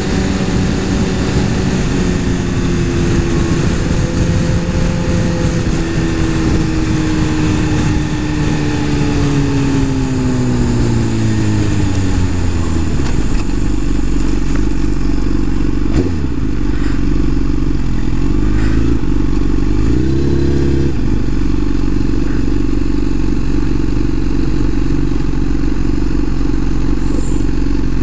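Suzuki GSX-R 1000's inline-four engine winding down as the motorcycle slows, its pitch falling over about thirteen seconds with wind rush. It then settles into a steady idle.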